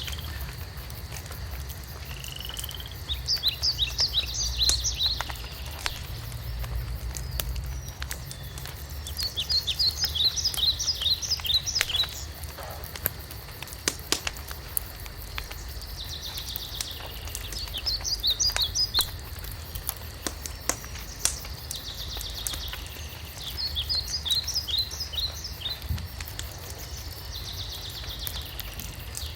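Wood fire crackling with scattered sharp pops, while a songbird sings a short song of rapid high notes about every six to seven seconds, four times.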